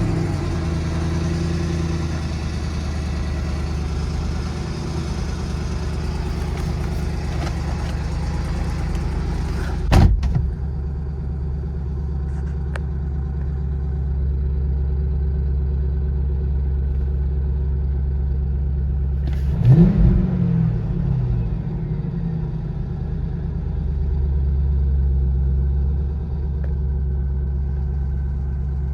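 Saleen-powered 2005 Ford Mustang V8 idling steadily on a cold start. There is a short sharp spike about ten seconds in and a brief rev that rises and falls about twenty seconds in.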